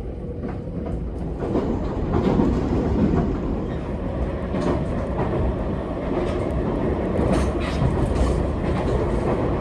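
Nankai electric train running, heard from inside a passenger car: a steady rumble with a faint hum and scattered clicks from the wheels on the rails.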